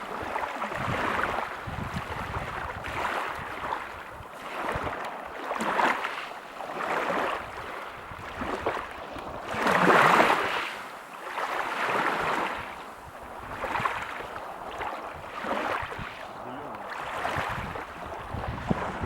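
Ocean waves breaking on a beach: a hissing wash of surf that swells and fades every second or two, with the loudest wave breaking about ten seconds in.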